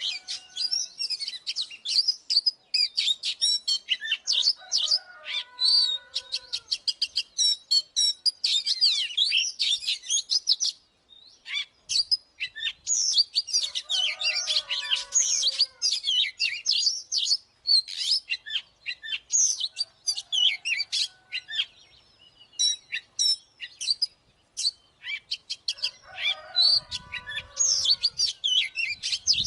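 Oriental magpie-robin singing: fast, varied whistles and chattering phrases in bouts, with short pauses about a third and two-thirds of the way through.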